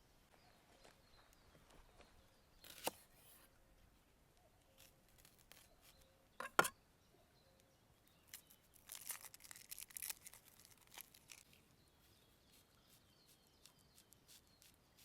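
Food-preparation handling sounds: two sharp knocks, one about three seconds in and a louder one after about six and a half seconds, then a few seconds of rustling, tearing sound. Faint birdsong behind.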